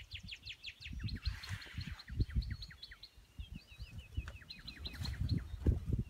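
Songbirds chirping in quick runs of short, high notes, several runs overlapping. Uneven low buffeting from wind runs underneath and makes the loudest moments.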